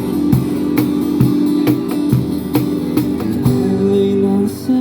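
Live band music: strummed guitar over a steady drum beat of about two strikes a second, with a long held sung note coming in near the end.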